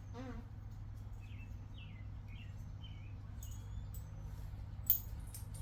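A small bird chirping a quick series of short notes over a low steady hum, with one sharp click near the end.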